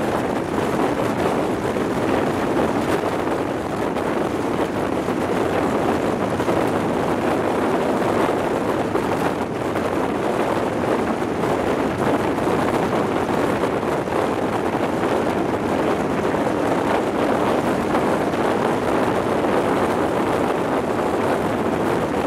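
Steady rush of wind over a microphone held out of the window of an InterCity 125 High Speed Train running at speed, with the train's running noise beneath it.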